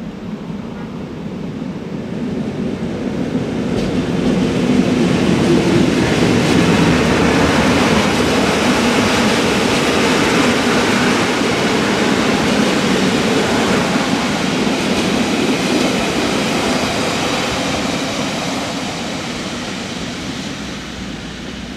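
Rhaetian Railway metre-gauge passenger train rolling past on the nearest track. The rumble and rattle of its wheels on the rails builds over the first few seconds, stays loud while the carriages go by, then fades away toward the end.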